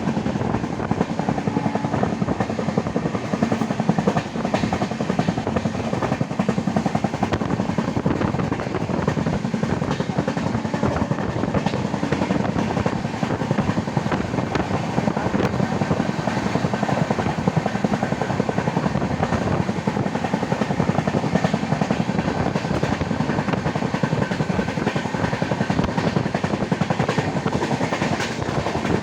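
Passenger train running steadily along the track, heard from aboard a coach: a continuous, unchanging rumble.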